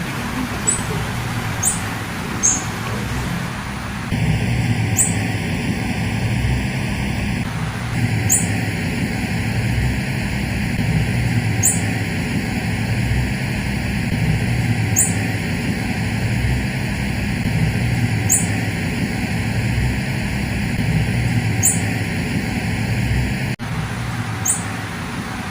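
Female blue-black grassquit (tiziu) giving short, high 'fit' call notes, a few in quick succession at first, then one about every three seconds, over a steady low background rumble.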